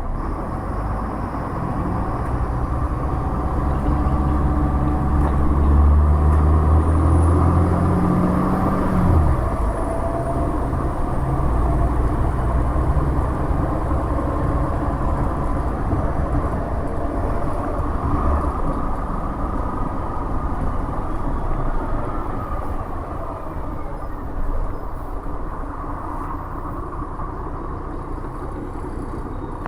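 The Mercedes-Benz OM 906 LA turbo-diesel of a MAZ-107 city bus, heard from inside the bus as it pulls away. The engine note climbs steadily, drops sharply about nine seconds in, and runs on lower until it fades into steady road and cabin noise at about eighteen seconds.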